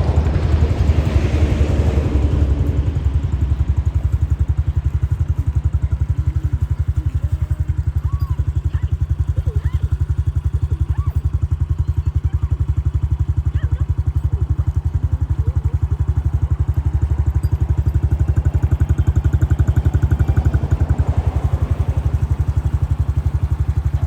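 Motorcycle engine running steadily at low revs with a fast, even pulse, and a few faint short chirps over it.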